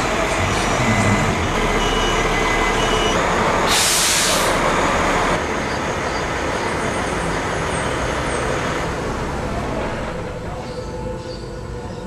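Steady road noise from a moving vehicle, with a loud hiss about four seconds in.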